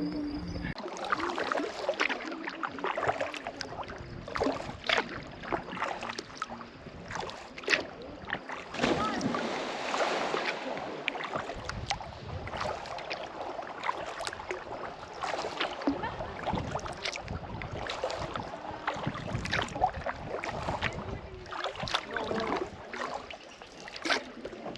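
Kayak paddling on a lake: paddle blades dipping and splashing in the water at irregular intervals.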